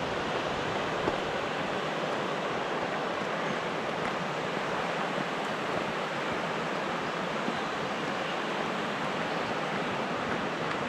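Steady rush of a fast-flowing creek, an even hiss of moving water with no change.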